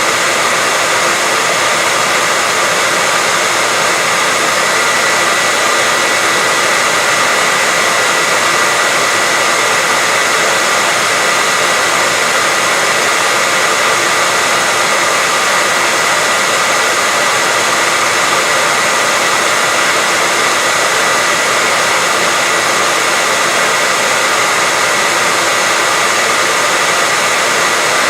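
Continuous white noise: a steady, even hiss with a faint steady high whine in it, unchanging throughout.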